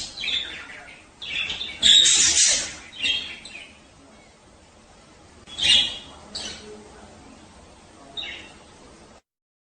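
Budgerigars chirping and warbling in short, irregular bursts, the loudest at about two seconds in. The sound cuts off abruptly near the end.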